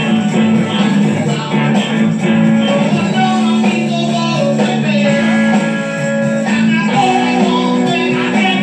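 A rock band playing a cover song, with strummed guitar chords.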